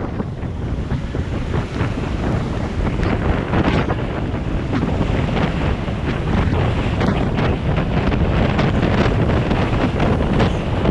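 Wind buffeting the microphone in a steady loud rush, with the noise of travel along a rain-soaked highway beneath it.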